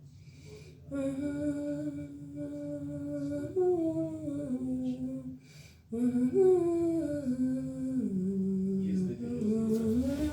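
A single voice humming a slow, wordless melody in long held notes that step up and down in pitch. It comes in two phrases, with a brief pause between them about halfway through.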